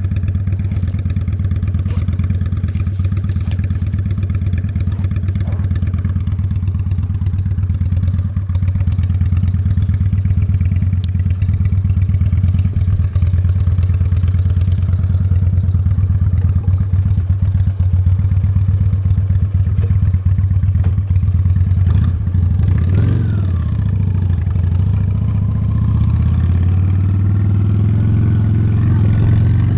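Honda Steed V-twin motorcycle engine running while the bike rides along at a steady pace. The engine note falls and rises again about two-thirds of the way through, then climbs near the end as the bike speeds up.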